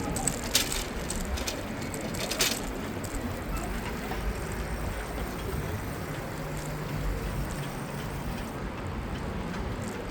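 Street sound heard from a moving bicycle: a steady rush of tyre, wind and traffic noise with a low rumble, and a few sharp clicks in the first couple of seconds.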